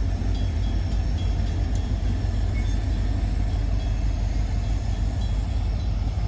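Freight train rolling by: a steady low rumble with a few faint, brief high squeaks.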